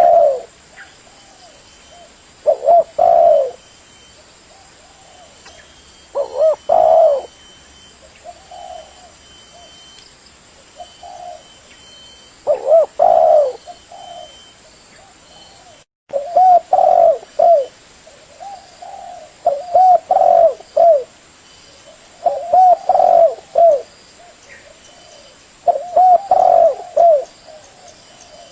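Spotted dove (tekukur) cooing: repeated phrases of a few short coos, a new phrase every two to four seconds, with a momentary break in the sound about halfway.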